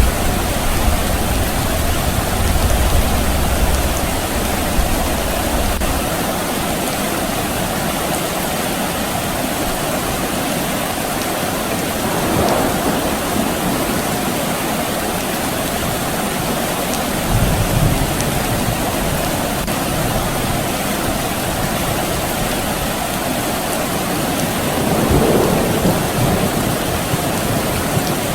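Steady rain hissing, with distant thunder: a low rumble over the first few seconds that fades out, and another short one a little past the middle.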